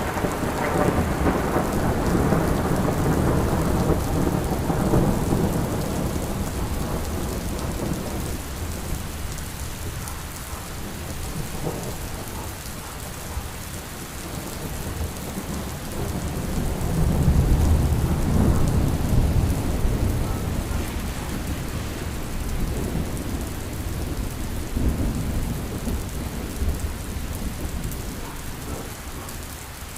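Steady rain with rolling thunder: a long low rumble dies away over the first several seconds, and another swells up and fades about seventeen seconds in.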